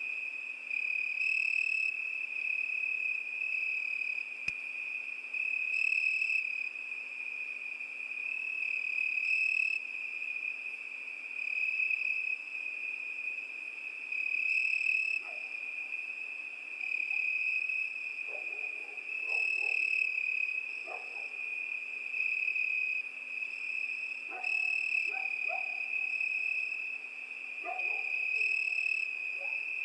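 Crickets singing, a continuous high trill that swells and eases every few seconds. Short, lower-pitched calls break in here and there from about halfway through.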